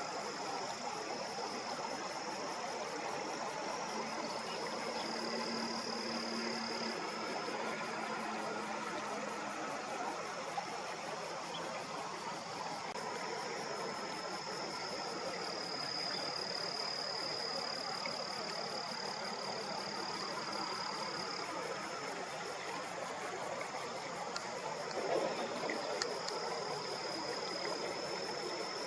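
Insects singing, a continuous high trill that swells and fades, over steady background noise.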